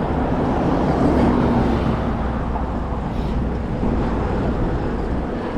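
Steady rushing noise of riding an electric hybrid bike at speed: wind on the microphone and tyres rolling on the path.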